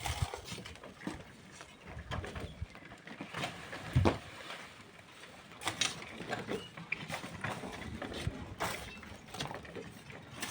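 Irregular knocks and scrapes of hand tools working rock and sand, with the loudest sharp knock about four seconds in.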